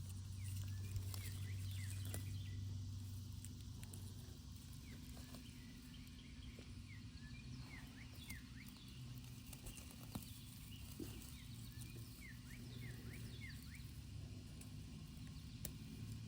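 Small birds chirping: many short, quick, falling chirps, repeated through the whole stretch, over a steady low drone like a distant engine.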